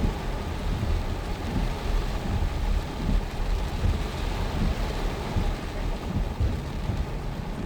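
Heavy rain and gusting wind in a storm: a steady dense hiss of rain over an uneven low rumble.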